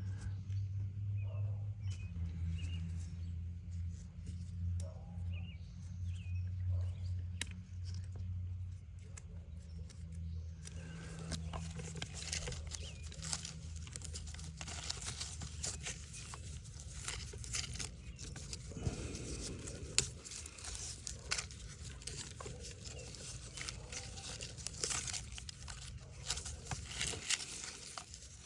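Hands working small materials: crinkling, tearing and small clicks from about ten seconds in, over a low steady hum that fades out.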